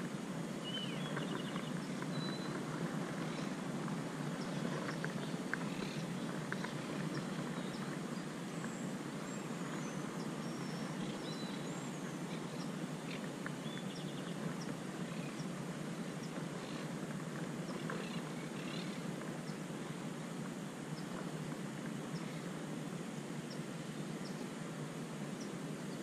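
Steady low background noise with faint, scattered bird chirps and short high whistles.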